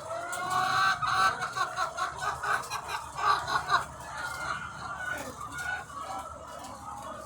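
A large flock of egg-laying hens clucking and squawking in an overlapping chorus, with a run of louder calls over the first four seconds before it settles to a steadier din.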